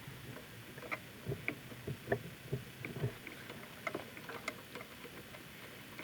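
A series of light, irregular clicks and knocks, most of them between about one and five seconds in.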